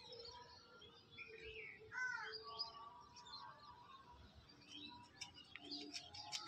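Birds chirping and calling faintly in short, scattered notes, with a few brief clicks.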